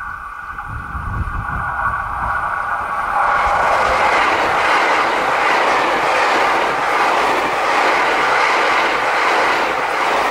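JR West 683 series 4000 Thunderbird limited express electric train approaching and then passing close at speed. The sound grows for about three seconds, then becomes a loud, steady rush of wheels on rail with clickety-clack as the cars run by, ending abruptly just after.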